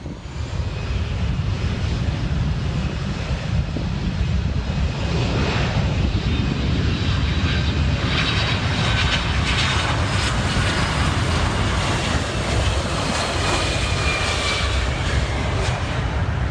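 Jet airliner passing close, its engines making a loud, steady rumble with a high whine that slides slightly lower in pitch in the later seconds.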